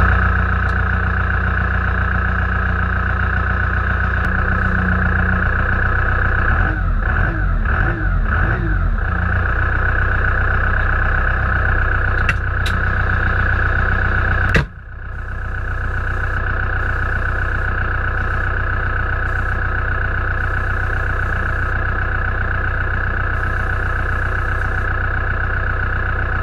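Large utility tractor running steadily, a constant mechanical drone. About halfway through the sound cuts off sharply and picks up again, a little quieter.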